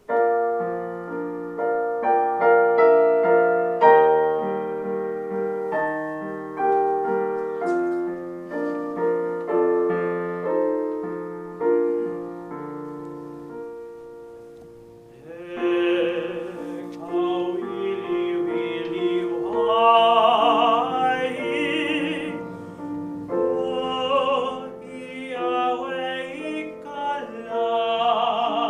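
Solo piano introduction. About halfway through, a baritone begins singing in Hawaiian with wide vibrato, accompanied by the piano.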